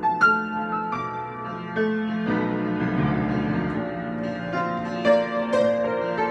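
Piano improvisation: chords and melody notes struck and left to ring, at a moderate, unhurried pace.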